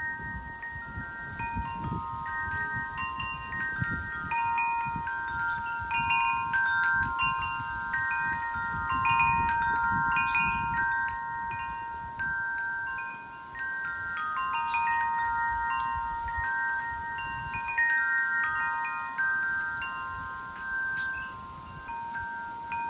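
Wind chimes ringing in the wind. Several tuned tones are struck irregularly, overlap and ring on. A low, gusty rumble of wind comes and goes under them and dies down near the end.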